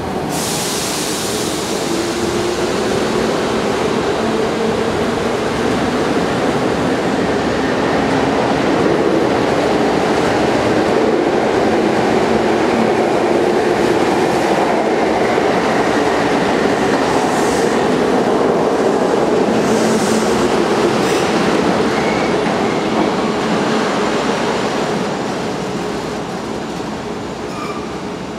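Kintetsu 21000 series Urban Liner Plus electric trains moving through an underground station, one pulling out as the other pulls in: loud steady running noise of motors and wheels with some rail clatter and wheel squeal, opening with a hiss and easing off near the end.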